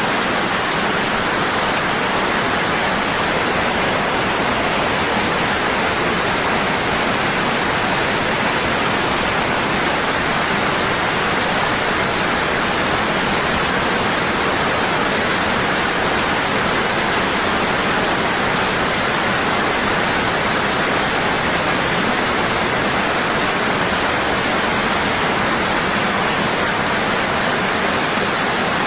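Waterfall pouring heavily and constantly, a steady even rush of falling water.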